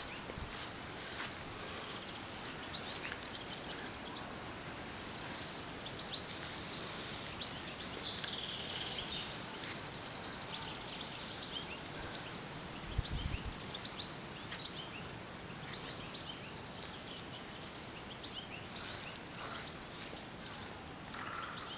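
Small birds chirping and trilling in forest, many short calls scattered throughout over a steady background hiss. There is a brief low thump about halfway through.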